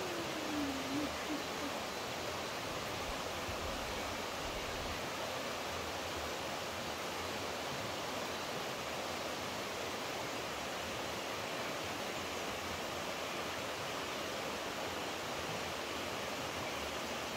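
Steady rushing of flowing water, like a stream or small waterfall, with a brief falling tone at the very start.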